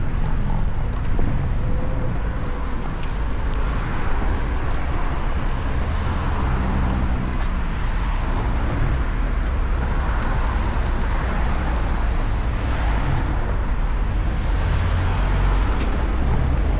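Steady rush of wind and road noise while riding an electric motorcycle through city traffic, with the sound of surrounding cars.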